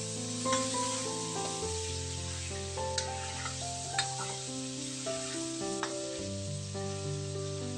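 Chicken and onions sizzling in hot oil in a metal wok, with a metal spatula stirring and scraping, its strokes clicking against the pan a few times. Background music plays alongside.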